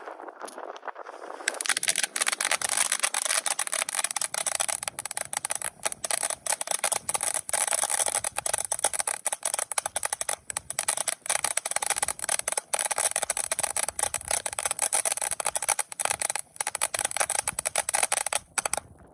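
Brothers Pyrotechnics Sweet Cream firework going off: a steady, dense stream of sharp crackles over a hiss, starting about a second and a half in and cutting off abruptly near the end.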